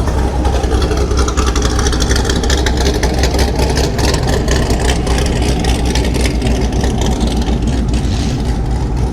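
A car engine running at low speed as the car rolls slowly past, a steady deep exhaust drone with a rapid pulsing rumble.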